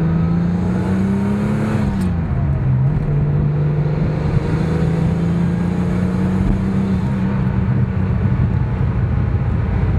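Porsche 930 Turbo's turbocharged air-cooled flat-six running under acceleration through a dual-outlet Maxflo muffler. Its pitch rises, drops sharply about two seconds in, then holds and climbs again. A rushing intake sound comes over it in two stretches when the engine is in boost.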